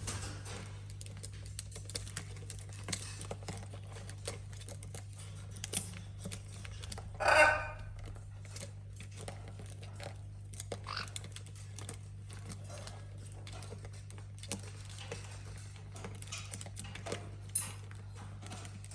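Parrots playing: scattered light clicks and taps, with one loud harsh squawk about seven seconds in and a couple of short chirps later, over a steady low hum.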